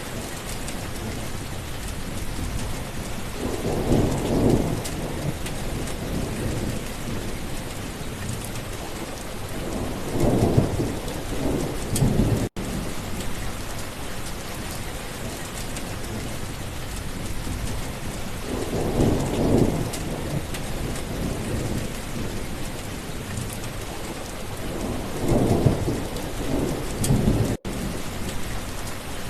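Steady rain with thunder rumbling four times, each roll lasting a second or two. Twice the whole sound cuts out for an instant.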